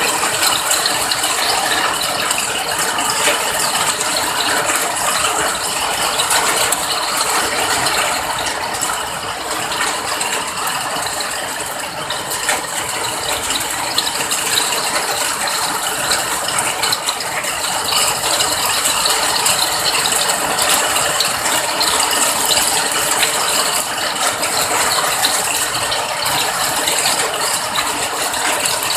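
Steady rain: a dense, even patter of many small drop impacts with no change in strength.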